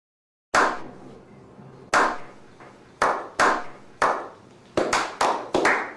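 About ten sharp, sudden hits at irregular intervals, bunched closer together near the end, each fading quickly, after a brief moment of silence at the start.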